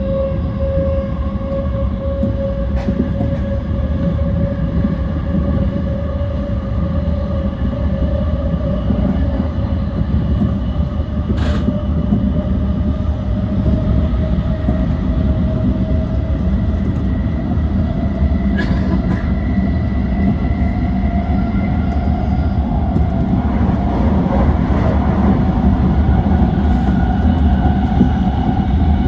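JR East E235-1000 series electric train running, with wheel and rail rumble under a steady motor whine that climbs slowly in pitch as the train gathers speed. A few sharp clicks sound now and then.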